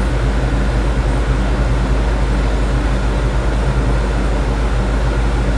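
Ford 460 big-block V8 with Edelbrock Pro-Flow 4 electronic fuel injection running steadily on an engine dyno at an even speed, not revving.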